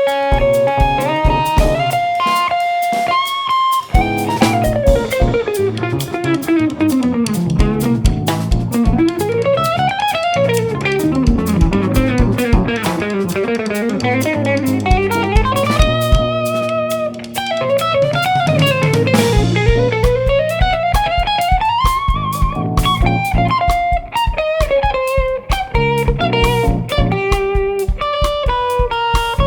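Live jazz-fusion band playing: electric guitar lead line running up and down in quick notes over bass and drum kit.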